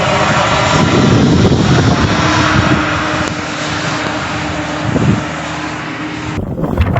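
A vehicle running amid a steady rushing noise, with a faint steady hum through the middle; the sound changes abruptly near the end.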